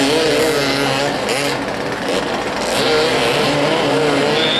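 Several motoball motorcycle engines revving up and down as the bikes move about the pitch. Their pitch keeps rising and falling, and a short, high-pitched tone comes in near the end.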